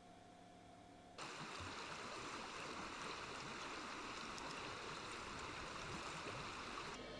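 Faint steady hum for about a second, then a sudden switch to the steady rush of flowing stream water.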